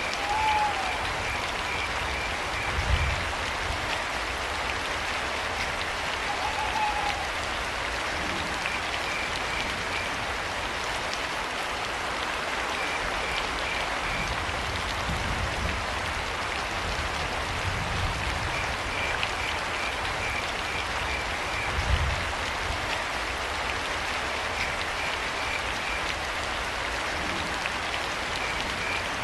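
Steady rain falling, with crickets chirping in short, evenly spaced trains every few seconds. An owl gives two short hoots, about half a second and about seven seconds in. Two low thumps stand out, about three seconds and twenty-two seconds in.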